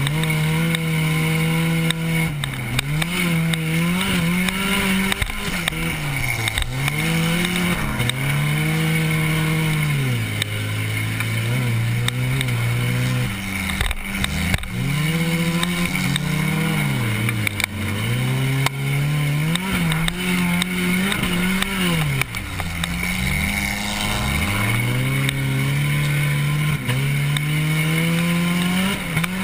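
Compact car's engine under race throttle, revving up and falling off again every few seconds as the driver accelerates and lifts, heard from inside the car.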